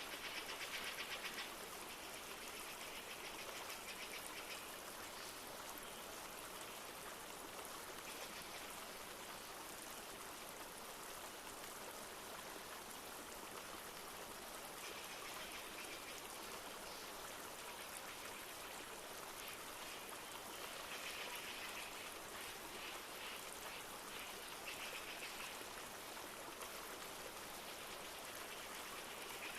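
Steady rush of a flowing river over stones, with light rain in the mix. Bursts of high, finely pulsed trilling come and go over the water several times.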